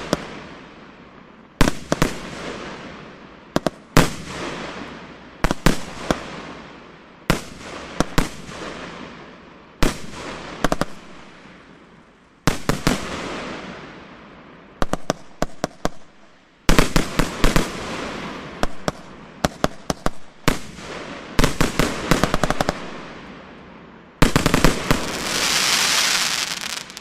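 Poseidon firework battery firing: a run of sharp bangs, singly and in quick clusters, each trailing off in a fading hiss. Near the end a dense, loud hissing burst lasts a couple of seconds before it stops.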